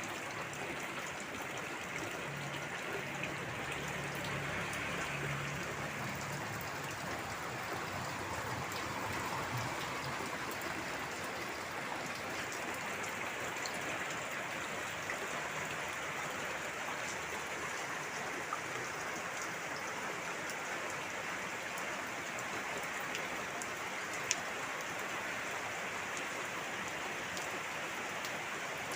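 Steady rain falling and pattering on surfaces, an even hiss throughout. A faint low hum sounds for a few seconds near the start, and there is a single sharp click late on.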